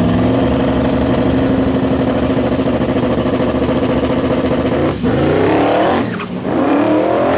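A car engine at high revs, held steady, then dropping and climbing in pitch twice near the end, like a car accelerating hard through its gears or being revved repeatedly.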